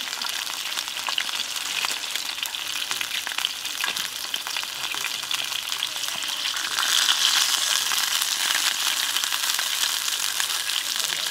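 Whole pig liver frying in hot oil in a square pan: a steady sizzle with many small crackles and spits. The sizzle grows louder about two-thirds of the way through as the liver is turned over with chopsticks.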